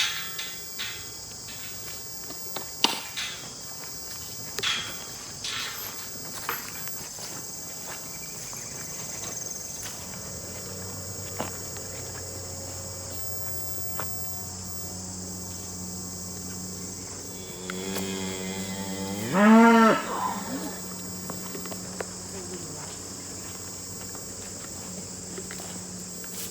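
Irish Dexter cow mooing once, a loud call that rises in pitch about three-quarters of the way through, over a steady chirring of insects. A few sharp knocks come in the first few seconds.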